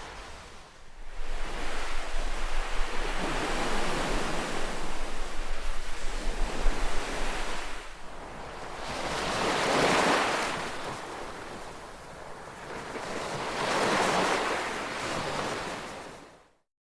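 Ocean waves washing ashore, the surf swelling and ebbing in long surges, with a low rumble under the first half. The sound fades out to silence just before the end.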